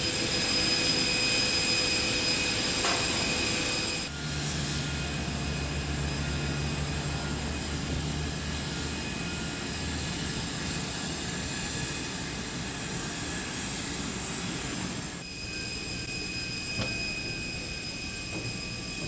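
Steady Boeing 747-400 aircraft noise: flight-deck hum and jet-engine whine with several steady high tones. It changes abruptly about four seconds in, when a low pulsing hum joins for a few seconds, and again near the end, when it turns quieter.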